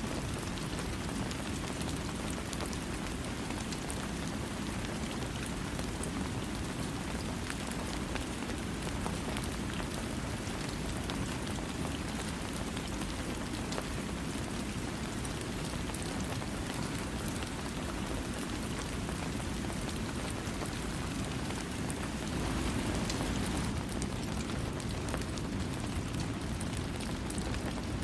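Steady rain falling, with a dense patter of drops and no thunder; it swells slightly about 22 seconds in.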